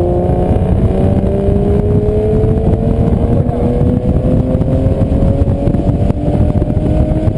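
Aston Martin DBS V12 engine pulling under acceleration on track, its pitch climbing slowly and steadily as it winds up through one long gear, over a loud low rumble.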